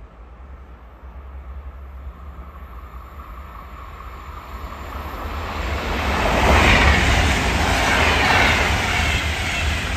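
A train approaching and passing through a railway station, growing steadily louder over the first six or seven seconds and staying loud to the end. A faint steady high tone is heard during the approach.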